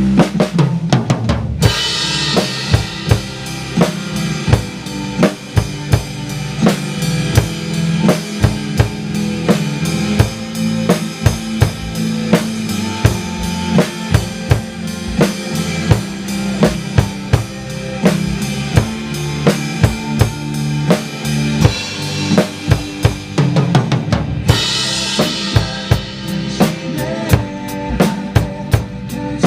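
Drum kit played along with a song's backing track: a steady beat of bass drum and snare over the music, with a bright cymbal wash starting about two seconds in and again about five seconds before the end.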